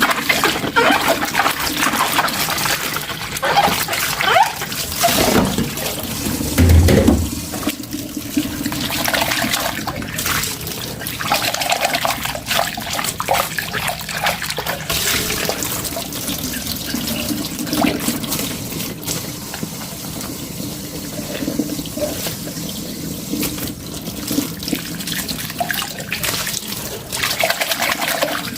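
Tap water running into a kitchen sink while dishes are washed by hand, with frequent small knocks and clinks of dishware and one dull thump about seven seconds in.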